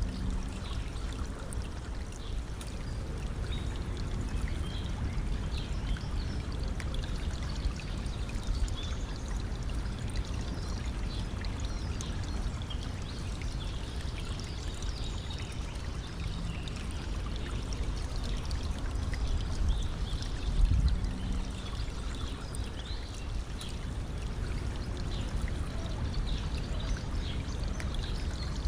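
Stream water trickling and pouring over stones in a steady rush, with one brief louder low thud about three-quarters of the way through.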